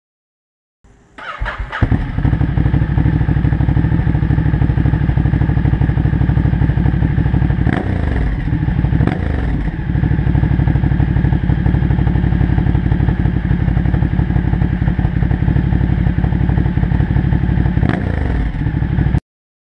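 Ducati Multistrada L-twin engine with a MIVV Suono exhaust and decat pipe, starting about a second in, then idling loudly with a few brief blips of the throttle, and shut off abruptly near the end.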